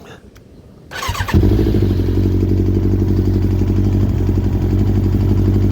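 Yamaha YZF1000R Thunderace's inline-four engine cranking briefly on the starter about a second in, then catching and settling into a steady idle.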